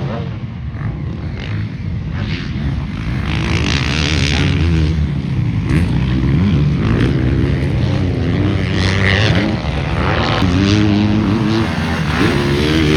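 Motocross bikes racing on the track, their engines revving up and down through the gears as they ride by, more than one at a time.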